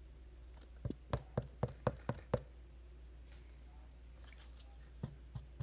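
A quick run of about seven light knocks or taps over about a second and a half, then a few fainter ones near the end, over a steady low hum.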